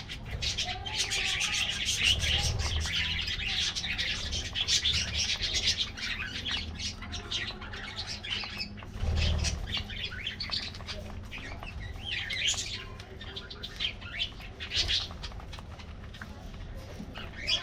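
A flock of budgerigars chirping and chattering continuously, with a couple of low thumps about two and nine seconds in.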